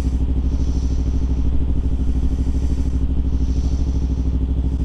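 Kawasaki Ninja sport bike's engine running steadily at one low, unchanging pitch, heard from the rider's helmet camera.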